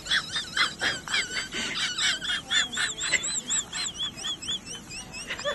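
Birds calling: a dense run of high, quick chirps, then from about halfway a string of repeated up-and-down whistled peeps, about three a second.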